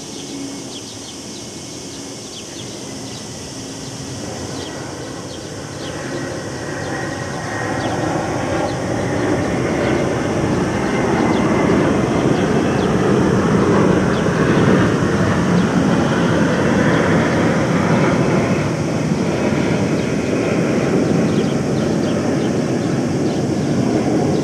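A loud rumble from a passing vehicle or aircraft, swelling over about ten seconds and then holding, over a steady high cicada chorus.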